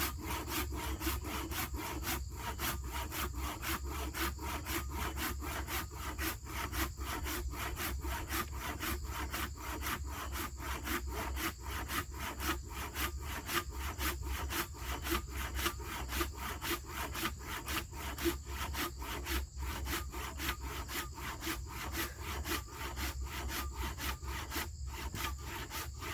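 Hand saw cutting through a fallen tree's wood in steady, rhythmic back-and-forth strokes.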